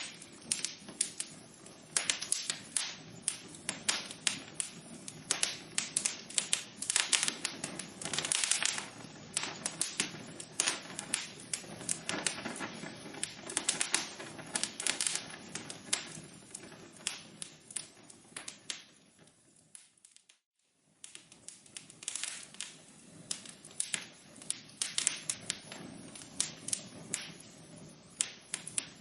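Wood fire crackling and popping in a fireplace, with a dense, irregular run of sharp snaps. About two-thirds of the way through, the sound dies away to silence for about a second, then the crackling resumes.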